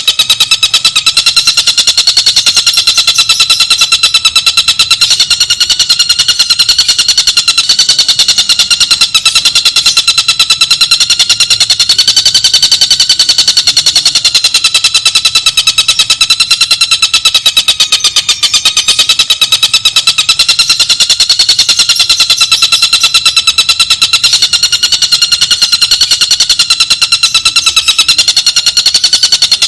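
Tengkek buto (collared kingfisher) calling in a continuous, very rapid, close-set trill of clear notes, wavering slightly in pitch and never pausing.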